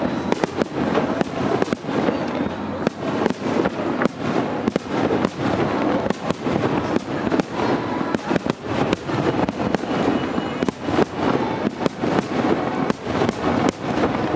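A starmine barrage of Japanese aerial fireworks: many shells bursting in quick succession, a dense run of bangs and crackling with no break.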